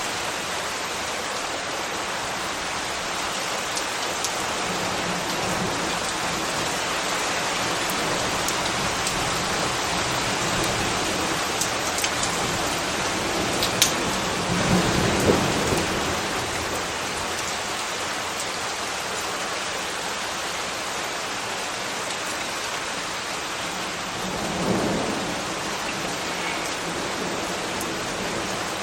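Steady rain falling, an even hiss with a few sharp drip-like ticks. Two brief low rumbling swells rise and fade, one about halfway through and a smaller one near the end.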